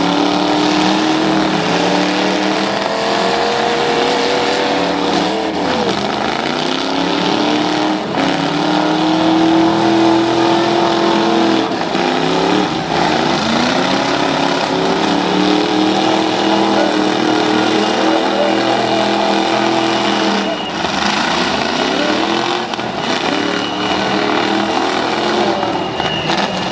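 Demolition-derby trucks' engines revving hard, each rev rising in pitch and then falling back, over and over.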